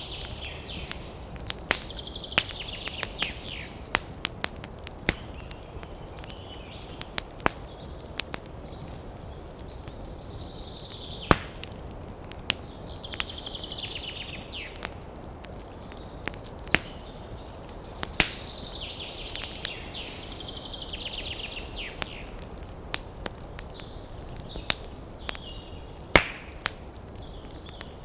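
Wood campfire crackling with frequent sharp pops over a steady low hiss, while a songbird repeats short high trilling phrases every few seconds.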